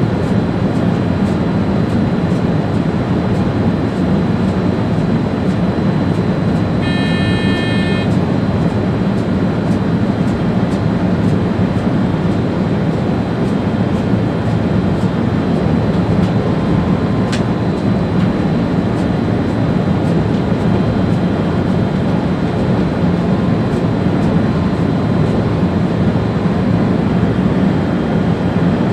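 Steady running noise of an ÖBB Railjet high-speed train heard from the driver's cab at speed, a constant low rumble. A short electronic tone sounds for about a second some seven seconds in, and a single click comes a little past halfway.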